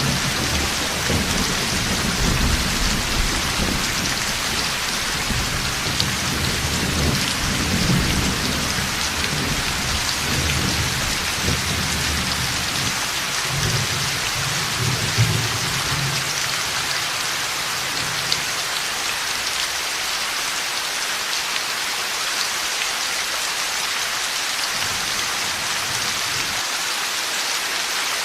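Heavy rain falling steadily, with low rolling thunder rumbling through the first half that fades out about halfway, leaving only the rain.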